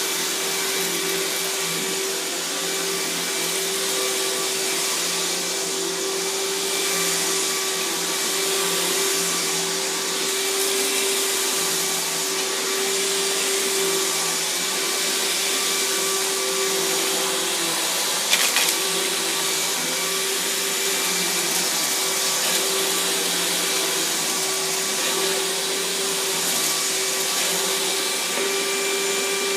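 Riccar 10-amp bagged vacuum cleaner running steadily over carpet: a constant motor hum with an even rushing hiss of suction, and one brief sharp click about two-thirds of the way through.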